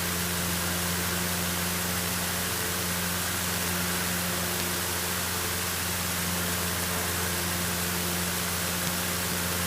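Cessna 152's four-cylinder Lycoming engine droning steadily at climb power, with a constant hiss over it.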